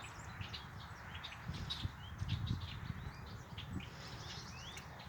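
Red-winged blackbirds giving many short, sharp alarm calls with a few quick rising notes: scolding an intruder near their nests, not a welcome call.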